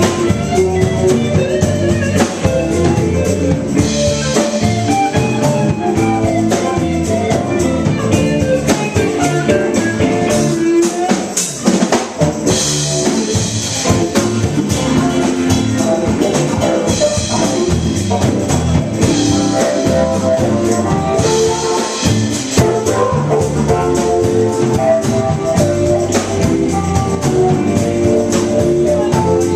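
Live band playing, with drum kit and guitar carrying a steady beat.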